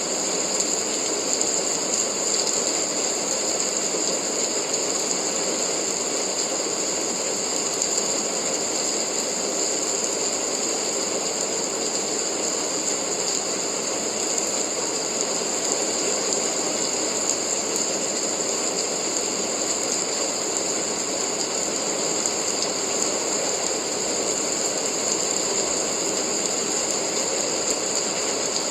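Steady rain falling, an even hiss without breaks or separate drops standing out.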